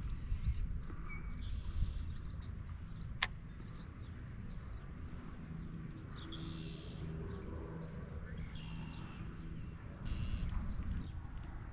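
Wind buffeting the microphone in a steady low rumble, with birds calling in short high bursts a few times and one sharp click about three seconds in.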